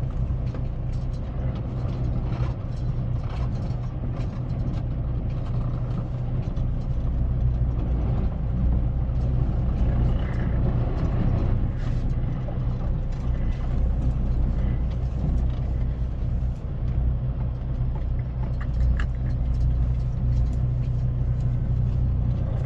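Diesel engine of a semi truck running steadily, a constant low drone with no change in speed.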